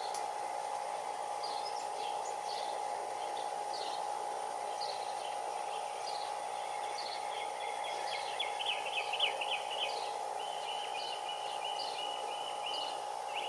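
Birds calling: short high chirps about once a second, joined about halfway in by a fast, wavering trill, over a steady low hum.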